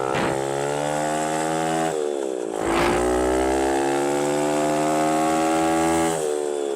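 Single-cylinder engine of a 110cc semi-automatic mini dirt bike being ridden, its pitch climbing steadily under throttle. About two seconds in the revs drop sharply as the rider shifts up a gear, then climb slowly again, and they fall off once more near the end.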